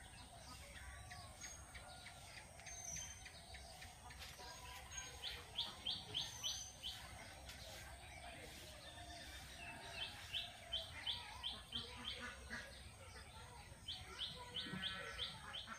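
A bird calling in three runs of quick, sharp repeated notes, about four a second, over faint background noise.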